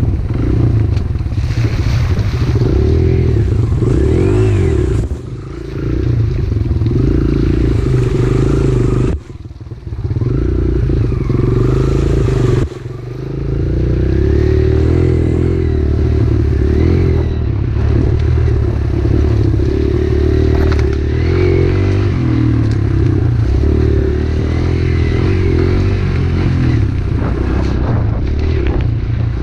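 Pit bike engine running under throttle, dropping off briefly about five, nine and thirteen seconds in before picking up again.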